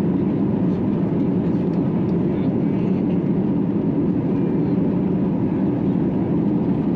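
Steady engine and rushing-air noise inside the passenger cabin of an Airbus A321 airliner, as it comes in to land in a gusty crosswind.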